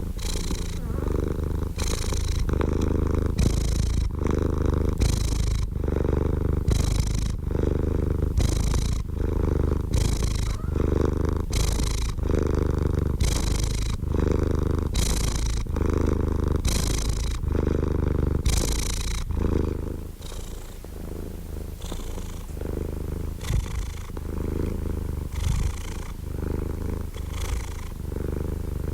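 Domestic cat purring steadily and close, the purr swelling with each breath about once a second; it turns softer and less regular about two-thirds of the way through.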